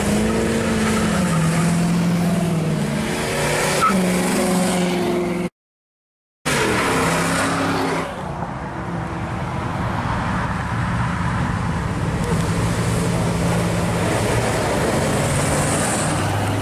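Hot rod and classic car engines driving away one after another, the engine note rising and falling over the first few seconds. The sound cuts out for about a second near the middle. Near the end a C3 Corvette drives past close by.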